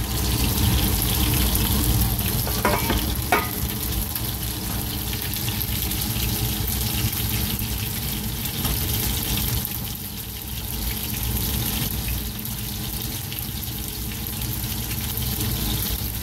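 Breadcrumbed fish fillets and diced vegetables sizzling in oil in two frying pans, with a plastic spatula stirring and scraping the vegetables. There are a couple of short knocks about three seconds in.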